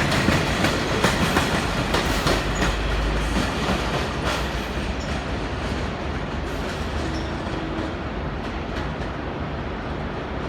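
V/Line passenger train rolling out, its wheels clicking over the rail joints with a steady rumble. The clicks thin out and the sound fades as the train pulls away.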